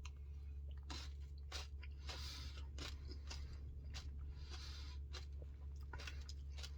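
Close-up chewing and crunching of a mouthful of Dairy Queen Puppy Chow Blizzard, quiet and irregular, with many short crunches, over a low steady hum.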